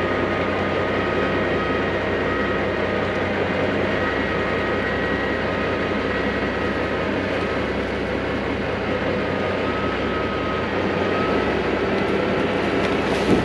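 John Deere 250G LCR excavator's diesel engine running steadily, with a steady high whine over the engine note. A sharp clunk comes right at the end.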